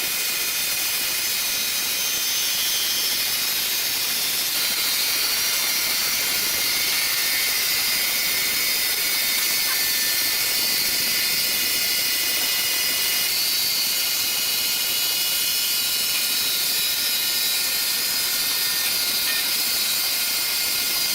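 Sawmill saw running steadily, a loud high hiss with faint steady whining tones.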